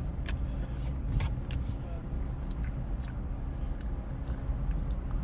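A person chewing a mouthful of baked pasta with wet mouth clicks and smacks, scattered every half second or so, over a steady low hum.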